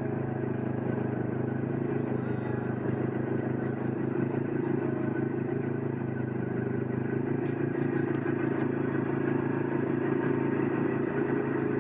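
Off-road side-by-side engine running steadily, getting slightly louder near the end, with a few faint clicks about eight seconds in.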